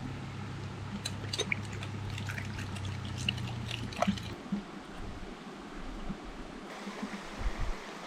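Water trickling, with scattered light clicks over the first few seconds and a steady low hum that stops about four seconds in.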